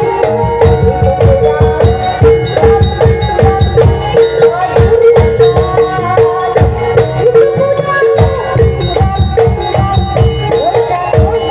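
Loud traditional Javanese folk music played live, with rapid drum strokes under a dense run of short ringing metallic notes and a long held tone.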